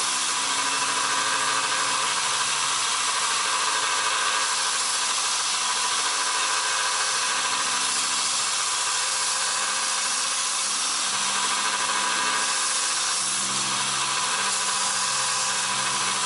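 Belt sander running with a forged steel razor blade held against the belt: a steady grinding hiss over the motor's hum.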